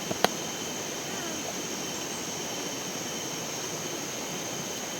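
Steady rush of flowing stream water, with thin steady high tones over it and a single sharp click about a quarter of a second in.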